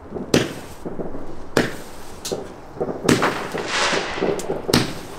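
Fireworks going off: a run of about five or six sharp bangs spaced irregularly, each with a short echoing tail, with crackling fizz between some of them.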